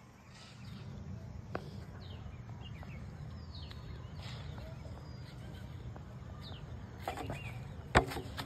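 Open-field background hum with faint, scattered bird chirps, each a short note sliding in pitch. A single sharp tick comes about a second and a half in, and a couple of sharper taps near the end.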